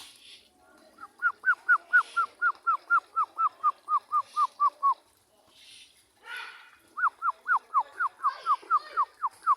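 A bird calling a fast run of short, downward-sliding notes, about four a second, for some four seconds; after a short pause a second run starts about seven seconds in.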